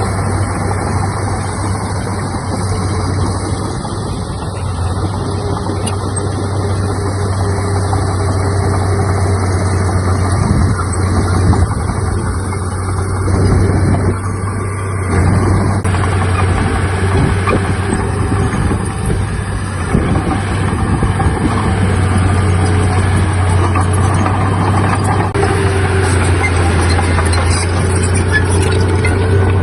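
Diesel engine of heavy earthmoving machinery running steadily with a deep, constant hum.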